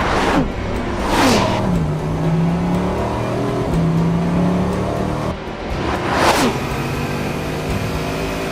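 Bugatti Chiron's quad-turbocharged W16 sweeping past at very high speed three times, each pass a sudden rush of engine and wind noise whose pitch drops as the car goes by. Music runs underneath.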